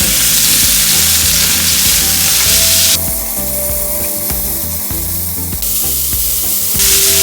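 Chicken pieces sizzling in hot oil in a frying pan as they caramelize. The high hiss of the sizzle drops away for a couple of seconds in the middle, then comes back.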